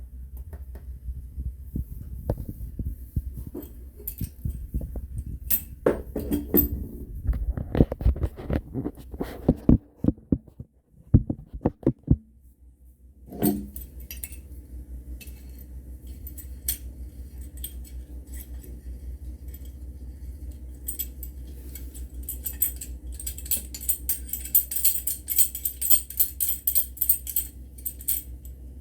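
Hard objects, metal among them, being handled: scattered clinks, taps and knocks over a low steady hum, with a short lull about a third of the way in and a dense run of quick light ticking near the end.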